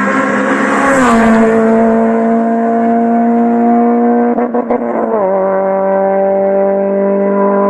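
Honda Civic four-cylinder VTEC engine and exhaust running hard at a steady pitch. The pitch drops and settles lower twice, about a second in and again about five seconds in, with a brief stutter just before the second drop.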